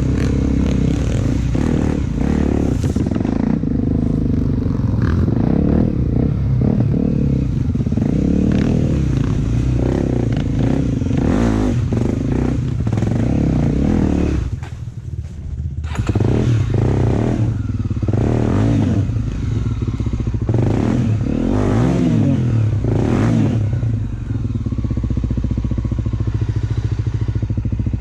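Honda XR250 Tornado single-cylinder four-stroke trail motorcycle running, its engine note rising and falling with the throttle. The engine drops off briefly about halfway through, then revs up again in several surges.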